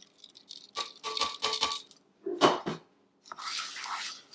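Bird seed being poured into a pot of hot gelatin and water mixture: a run of small clicks and rattles as the seeds fall in, broken by two short silences.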